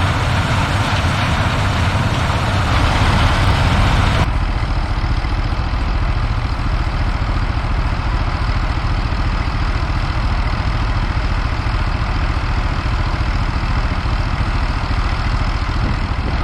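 Heavy diesel farm machinery running steadily, a low engine drone under a rough hiss. About four seconds in the upper hiss drops away abruptly, leaving a steadier, lower engine sound.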